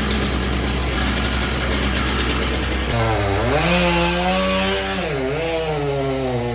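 Chainsaw engine revving up and down, joining about three seconds in over a steady low engine drone.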